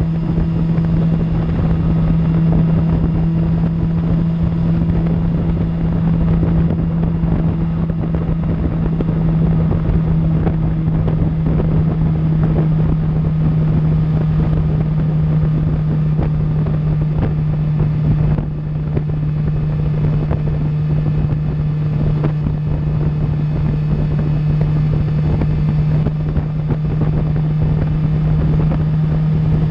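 2000 Suzuki GSX-R750's inline-four engine through an Akrapovic exhaust, cruising at a steady, near-constant pitch under wind noise, with a brief dip about eighteen seconds in.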